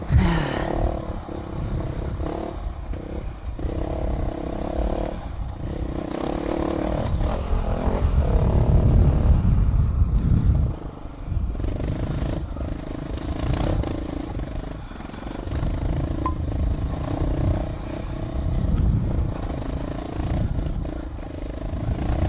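Dual-sport motorcycle engine running while being ridden on a trail, its pitch shifting up and down with the throttle, over a steady low rumble.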